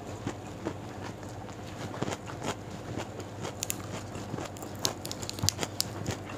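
Close-miked chewing of a mouthful of rice and raw vegetables, with wet mouth clicks and small crunches. From about three and a half seconds in come sharp, crisp snaps as a raw long bean is broken apart by hand.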